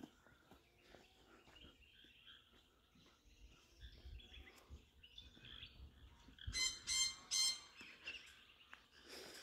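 Birds calling faintly in bushland, with three louder calls in quick succession about six and a half to seven and a half seconds in.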